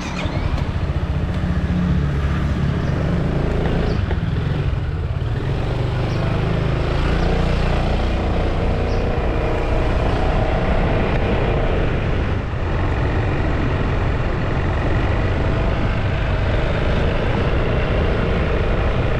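A vehicle on the move: steady engine and road noise with a heavy low rumble, probably buffeted by wind on the microphone.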